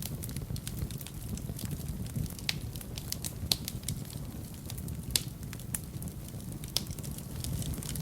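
Wood fire burning in a fireplace: a steady low rumble of flames with frequent small crackles and a few sharp, louder pops scattered through.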